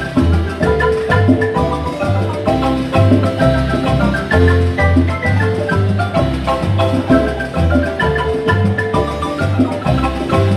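Guatemalan marimba ensemble playing a lively piece. The piccolo marimba carries the first-voice melody in quick struck notes over a steady, regular bass pulse.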